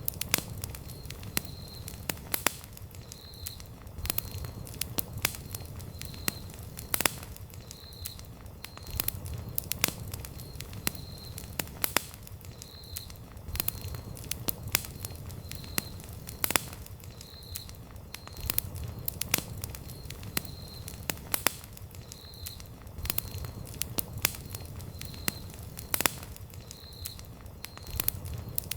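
Wood campfire burning, crackling and popping with many sharp, irregular snaps over a low steady rumble of the flames.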